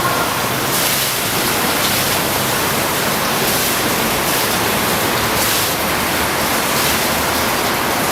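Water of a fountain falling and splashing, a steady loud rushing noise.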